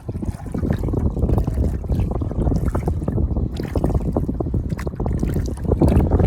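Water sloshing and splashing against a kayak's hull, with a dense crackle of small splashes over a low rumble of wind on the microphone.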